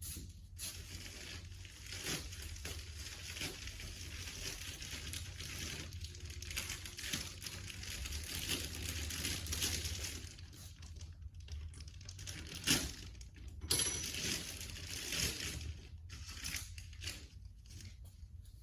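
Rustling and crinkling handling noise, with a few sharp clicks about two-thirds of the way through.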